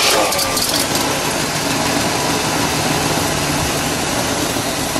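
1967 Oldsmobile Toronado's 425 cubic-inch V8 running just after starting, louder for about the first second and then settling into a steady idle.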